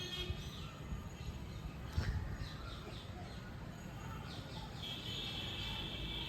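Birds chirping and singing: short falling chirps, then a steady high trill from about five seconds in, over a low rumble.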